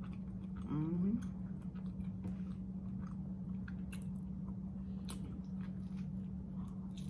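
A person biting into and chewing a soft flour-tortilla brisket burrito, with scattered short wet mouth clicks. There is a brief voiced sound about a second in, over a steady low hum.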